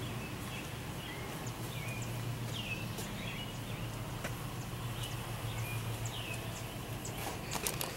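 Outdoor ambience of small birds chirping now and then, over a steady low hum, with a few sharp clicks near the end.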